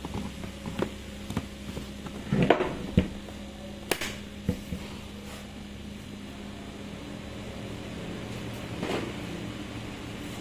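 Scattered clicks and knocks of parts and tools being handled during a power-tool repair, a cluster of them about two and a half to four seconds in and another near the end, over a steady low hum.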